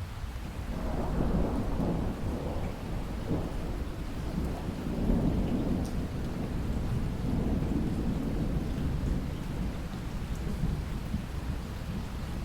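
Thunder rumbling long and low over steady rain, swelling about a second in and rolling on in several surges.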